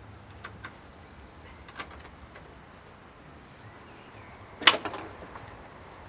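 Light scattered clicks of car parts and tools being handled, then a single loud, sharp knock with a short clatter after it, about three-quarters of the way through.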